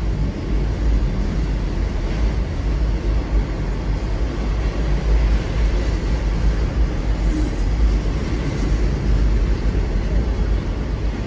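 Freight train of autorack cars rolling past at a steady pace: a continuous low rumble of wheels on rail with a steady noise over it.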